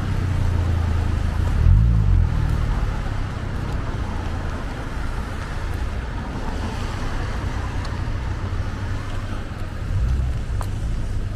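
Road traffic on wet city streets: a steady hiss of tyres and engine rumble, with one vehicle passing louder and closer about two seconds in.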